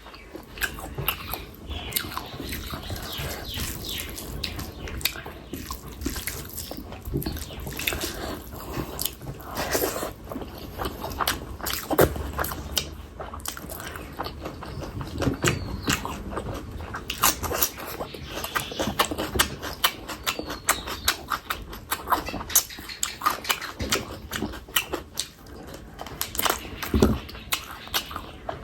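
Close-miked eating sounds: wet chewing and lip-smacking of a mouthful of fish curry and rice, as a dense stream of sharp sticky clicks.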